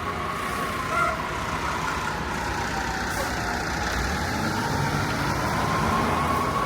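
City street traffic: vehicles passing with a steady low rumble, under a thin tone that slowly falls and then rises again.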